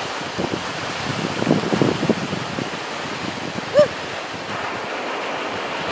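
Steady wash of surf with wind buffeting the microphone, gusting harder about one and a half seconds in, and a brief pitched squeak a little under four seconds in.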